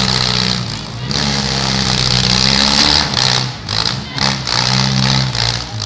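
Compact demolition derby cars' engines running and revving, their pitch stepping up and down, with a few brief drops in the sound past the middle.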